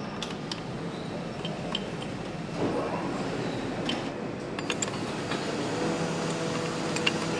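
Motorcycle engine assembly-line noise: a steady machinery hum with scattered light metallic clinks of parts and tools, and a faint steady tone coming in near the end.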